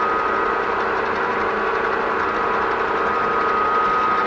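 Milling machine spindle running steadily with a spotting drill in the chuck, a constant geared whine with a clear high tone over a lower hum.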